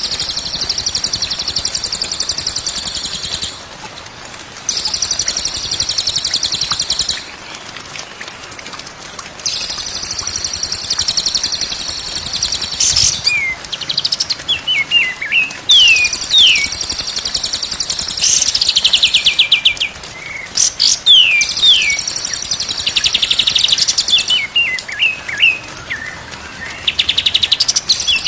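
Recorded songbird song: long, high, rapid trills of a couple of seconds each, repeated with short gaps, and short sliding whistled notes in between, over a steady hiss.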